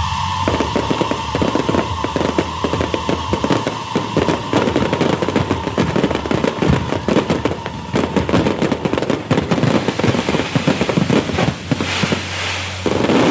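Fireworks crackling in a dense, rapid barrage of small bangs, pausing briefly near the end before starting up again louder. Over it, a steady whistle slowly falls in pitch.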